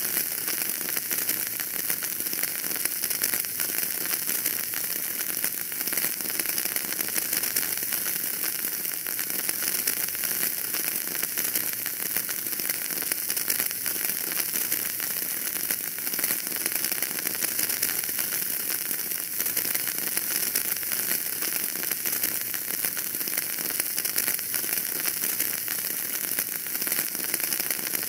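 Wood fire burning in a fireplace, crackling steadily: a dense run of small pops and ticks over a constant hiss.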